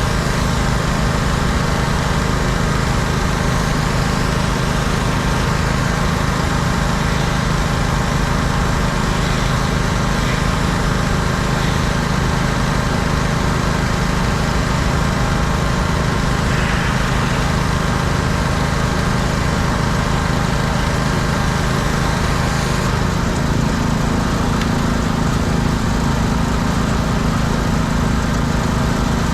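Small gas engine of a pressure washer running steadily under a wide hiss of spray. Its tone shifts slightly about 23 seconds in.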